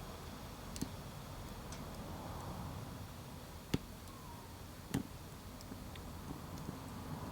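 Wood fire burning with a low steady rush and a few sharp crackles, the loudest pops coming a little under four and about five seconds in.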